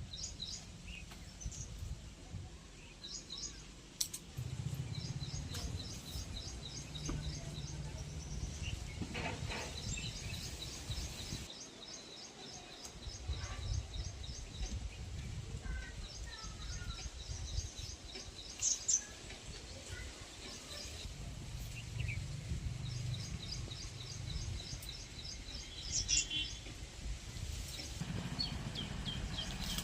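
Small birds chirping: quick, high, evenly repeated notes in runs of a few seconds, over a low rumbling noise.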